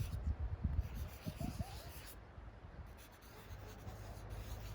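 Marker tip scratching across paper in a series of strokes with short pauses between them.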